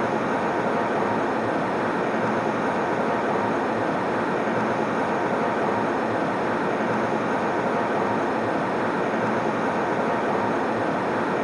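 Steady airliner cabin noise in flight: an even rush that does not change.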